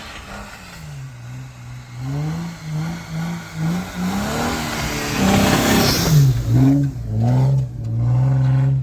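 Off-road vehicle engine revving in a series of short blips, with a loud rushing noise about five seconds in. Near the end the revs are held high, then cut off.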